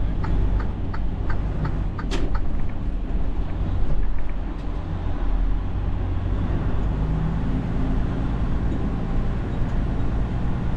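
Tractor-trailer's engine running, heard from inside the cab, with a turn-signal clicking about three times a second until about two seconds in. A single short, sharp hiss or click follows.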